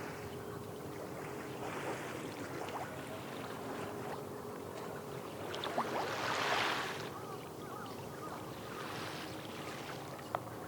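Small waves washing on the shore of Tokyo Bay, with one louder wash about six seconds in, over a steady low hum from a distant boat engine. A few sharp clicks near the end.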